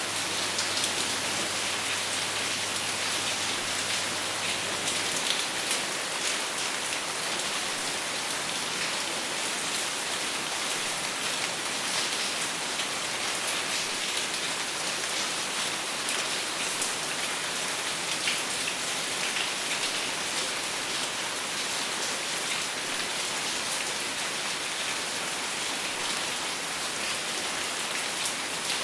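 Steady rain falling, an even hiss full of small drop ticks, with no thunder.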